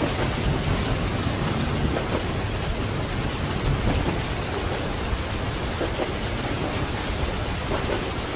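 Steady heavy rain with a low rumble underneath.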